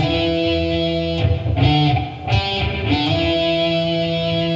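Guitar playing a slow single-note riff on the low strings, a few plucked notes each left to ring for about a second.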